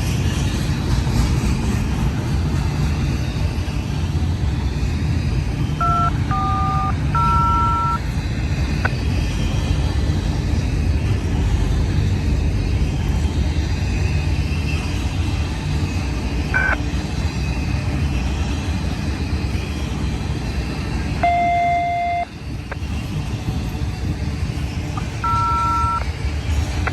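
Steady low rumble of a freight train running past on the Cajon Pass main line. Short two-tone electronic beeps sound about six seconds in, again around twenty-one seconds, and near the end.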